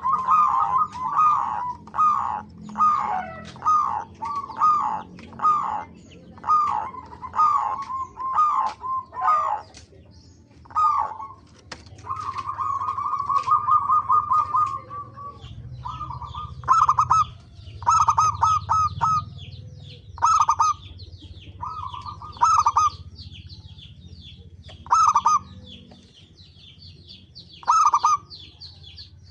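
Zebra doves (perkutut) cooing: quick runs of short rolling coos, with a held trill of a few seconds around the middle, then sparser single phrases. A steady series of higher, thinner chirps runs on through the second half.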